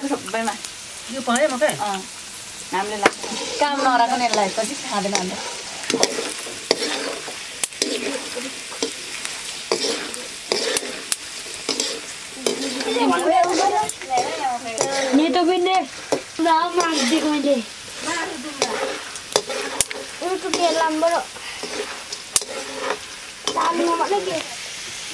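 Chicken pieces sizzling as they fry in oil in a metal wok, stirred by a spatula that scrapes around the wok again and again. The scraping gives short pitched squeaks and clicks over the steady sizzle.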